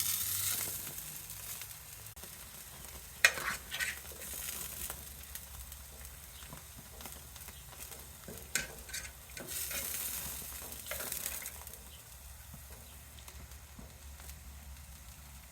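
Wagyu burgers and steak sizzling on a grill, a steady hiss that swells near the start and again about ten seconds in. A few sharp clacks cut through it, the loudest about three seconds in.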